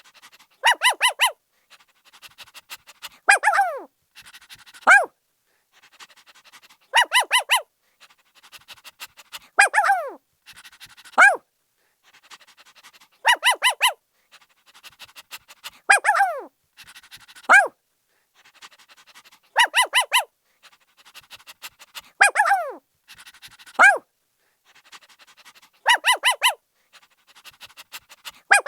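Puppy barking in high-pitched yips: quick runs of three or four short yips alternate with single yelps that slide down in pitch. The same sequence repeats about every six seconds.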